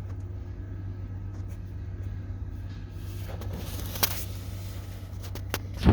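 A steady low mechanical hum, with scattered clicks, a brief rustle and click about four seconds in, and a loud knock at the very end.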